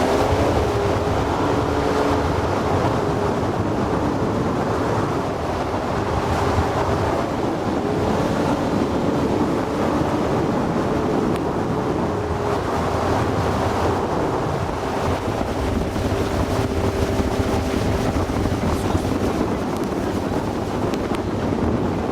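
Outboard motor of a Progress aluminium motorboat running steadily under way, its hum drifting slightly in pitch, over the rush of water and wind buffeting the microphone.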